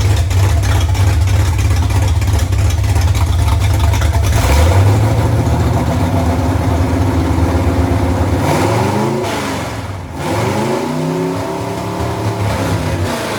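1981 Dodge D150's V8 engine running steadily, then revving up: its pitch climbs from about six seconds in, falls away with a brief dip about ten seconds in, then climbs again and eases off near the end.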